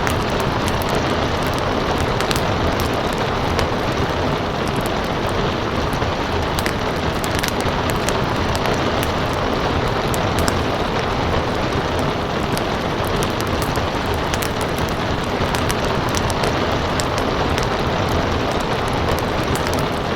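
Steady rain mixed with a crackling wood fire, with many sharp little pops scattered all through.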